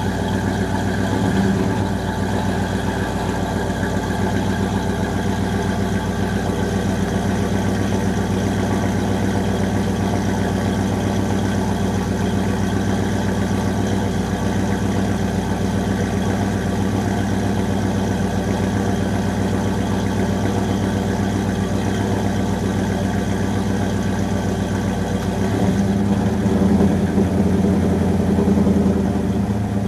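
2000 Ford Explorer's rebuilt 5.0 (302) V8 with a custom cam, idling with a lope through headers and a 2.5-inch dual exhaust with Flowmaster 40-series mufflers. Near the end the engine speed rises for about three seconds in a light rev, then settles back to idle.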